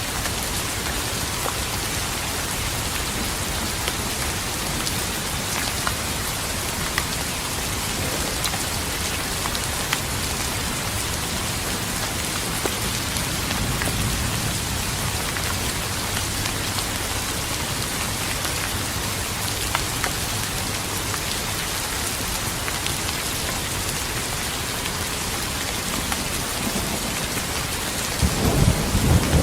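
Steady rain falling, with scattered drops ticking on a surface; near the end a low rumble of thunder rolls in and grows louder.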